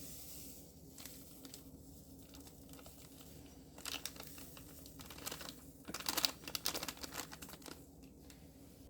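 Crinkling and light clicking from a glitter container being handled and shaken as blue glitter goes in, in scattered clusters about four seconds in and again about six to seven and a half seconds in.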